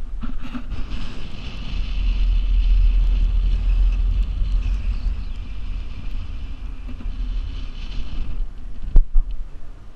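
Hurricane wind gusting hard, with a deep rumble of wind buffeting the microphone under a rushing hiss. It eases near the end, and a single sharp bang sounds about nine seconds in.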